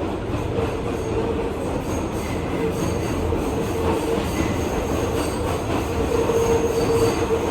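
R211A subway car running on the track, heard from inside: a steady rumble of wheels on rail, a wavering squeal that comes and goes, and faint high-pitched whines as the train approaches a station.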